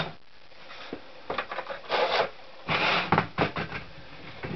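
A click, then several short bursts of scraping and rubbing as hands and tools work on a motorcycle engine while parts are being taken off.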